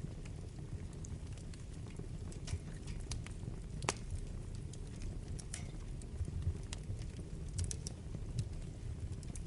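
Wood fire burning in a fireplace: a steady low rumble of flames with irregular sharp crackles and pops from the burning logs, one louder pop about four seconds in and a quick cluster near the end.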